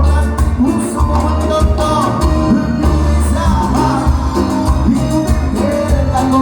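Live cuarteto band playing dance music, with a steady pulsing bass beat and sung melody lines over it.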